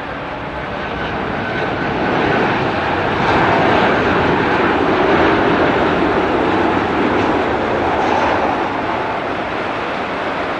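Boeing 737-900ER's CFM56-7B jet engines during a landing, with heavy rain. The engine noise swells for a few seconds in the middle, then eases off.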